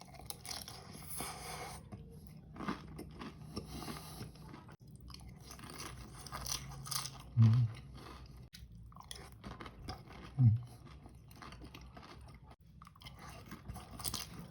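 Close-up crunchy chewing and biting of batagor, fried fish dumplings with cucumber, with many small crackles. Two short, loud low sounds come about seven and ten seconds in.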